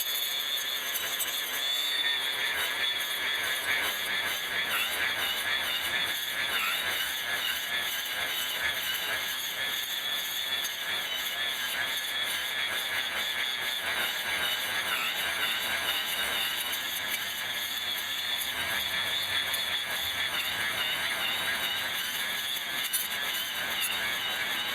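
Electric brush cutter cutting grass, played back sped up so its motor sounds as a steady high-pitched squeal that wavers in pitch.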